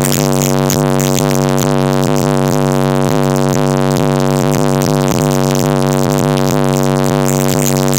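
Electronic music blasting through a competition car audio system, with a heavy sustained bass note under a steady synth beat at constant high volume.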